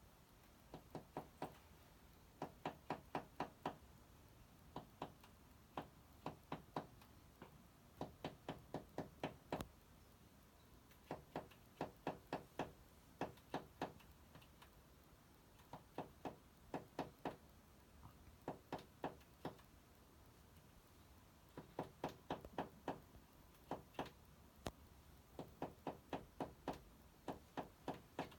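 A small bird knocking its beak against window glass: quick runs of several sharp taps, about five a second, repeated again and again with short pauses.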